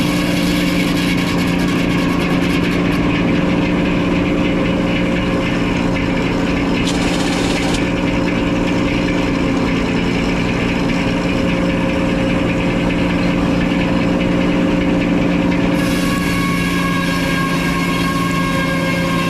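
Sawmill engine running steadily at a constant speed, with a steady hum of even tones.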